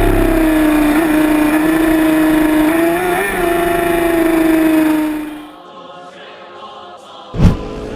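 Motorcycle engine running at high, nearly steady revs, its pitch holding with small rises and dips, then fading away about five seconds in. Near the end comes one brief, loud burst of noise.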